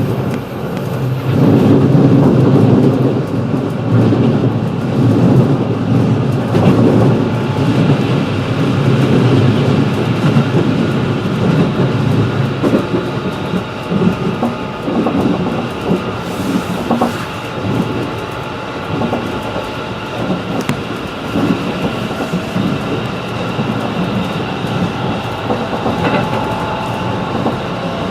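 211 series electric train running, heard from inside the passenger car: a steady rumble of wheels on rail mixed with motor noise, heavier for the first dozen seconds and then a little quieter.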